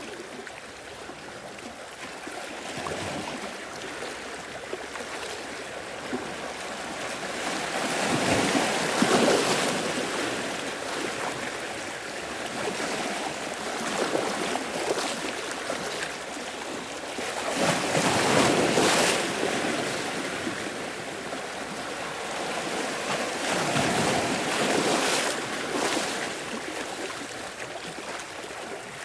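Sea waves washing in and breaking, rising into three louder surges about every seven seconds.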